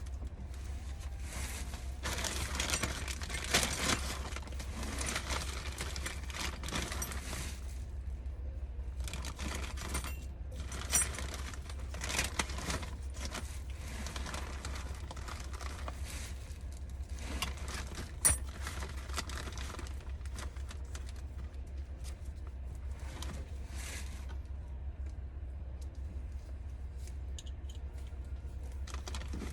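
Hand work with tools and metal parts: scattered rustling and scraping with a few sharp metallic clicks, over a steady low hum.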